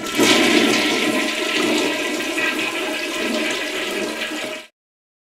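Toilet flushing: a steady rush of water that cuts off abruptly near the end.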